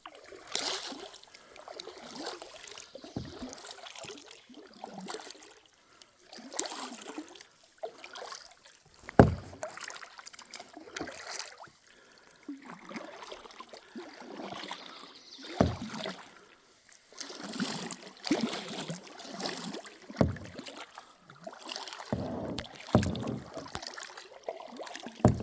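Kayak paddle strokes swishing and splashing in lake water, one every second or two, with about seven sharp knocks scattered through them.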